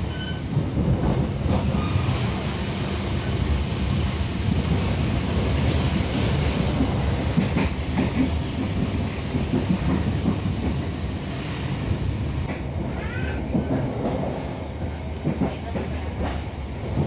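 Moving local passenger train heard from inside the coach: a steady rumble with wheels clacking irregularly over the rail joints.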